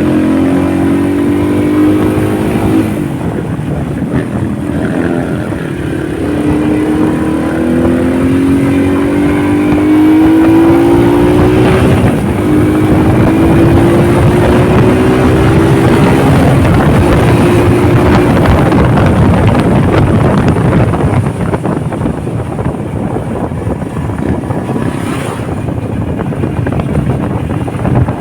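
Honda motorcycle engine running under way, its pitch climbing and then dropping back several times as it accelerates through the gears, over a constant rushing noise.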